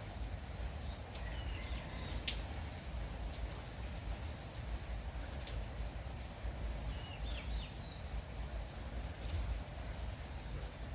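Steady light rain with scattered drips ticking, under a low rumble. Small birds give short chirps every second or two.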